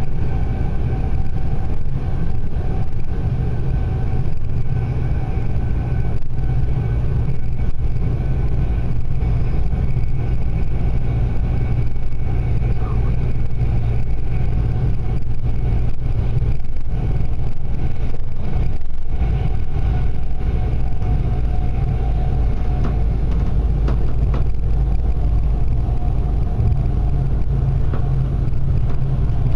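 Passenger train running at speed, heard from inside the carriage: a steady low rumble with a faint steady whine over it.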